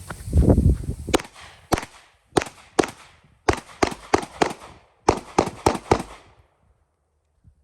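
Handgun firing rapidly, about a dozen sharp shots in three quick strings with short pauses between, preceded by a heavy low thump.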